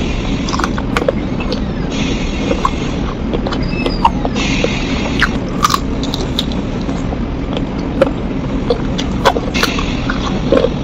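Close-up eating sounds of spicy chicken feet: biting and wet chewing, with many sharp mouth clicks and a few hissy stretches about a second long.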